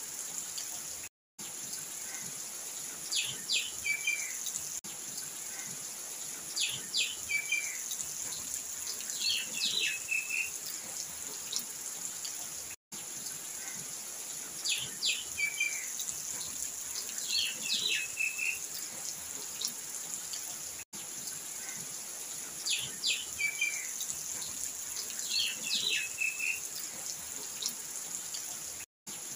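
A bird calling again and again, short groups of chirps that drop in pitch, every few seconds over a steady high hiss. The sound cuts out briefly to silence a few times.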